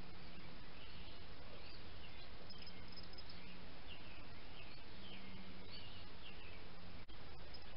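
Birds chirping in short, repeated, warbling phrases over a steady background hiss, with a brief dropout in the sound near the end.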